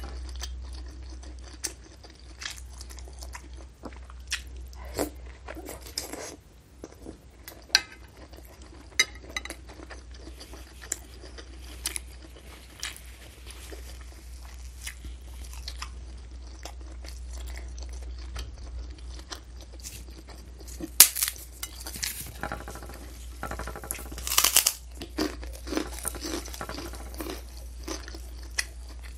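Close-miked chewing with crackly bites of crispy kerupuk crackers. Loud crunching comes in a dense run about two-thirds of the way through.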